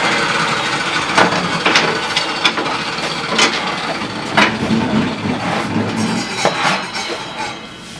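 A string of irregular knocks and clanks, as of steel pieces being handled and set down, over a steady mechanical running noise.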